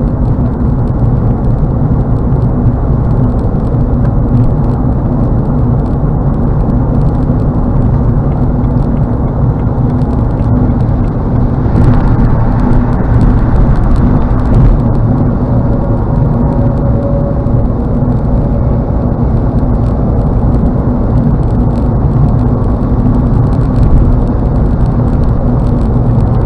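Car road noise heard inside the cabin at highway speed: a steady low rumble of tyres and engine, swelling slightly about halfway through.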